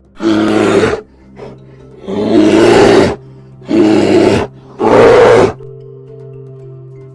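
A big cat roaring four times in a row, each roar loud and rough and lasting under a second, over soft background music.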